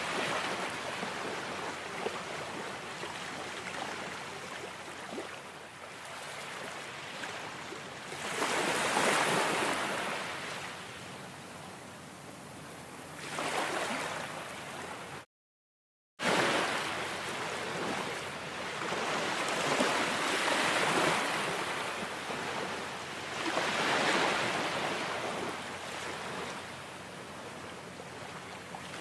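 Ocean surf: waves breaking and washing in, swelling and fading every few seconds. The sound cuts out completely for about a second about halfway through.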